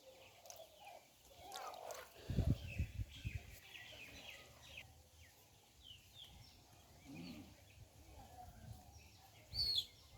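Wild birds chirping with many short, quick calls. Low muffled thumps come about two and a half seconds in and again near the end.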